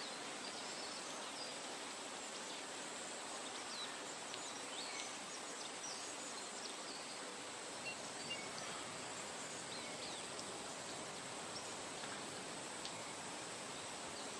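Forest nature ambience: an even, steady hiss like wind in foliage, with a thin constant high insect drone and scattered faint, short bird chirps throughout.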